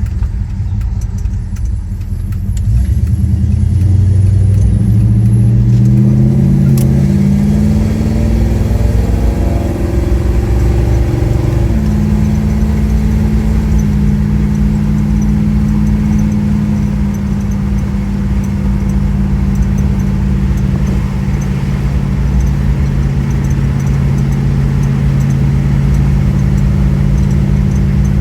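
1970 Plymouth Road Runner's 383 Magnum big-block V8 pulling under acceleration, its note rising in pitch for about ten seconds. About twelve seconds in it changes abruptly and settles into a steady cruising drone.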